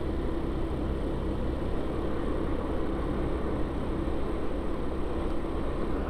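Yamaha Vino 125 scooter under way at a steady speed: an even mix of its small single-cylinder engine and wind and road noise.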